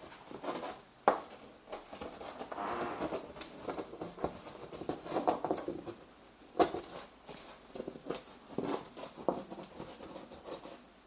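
An animal inside a ceiling, scratching and scurrying in irregular bursts, with scattered sharp knocks: the loudest about a second in and another just past the middle.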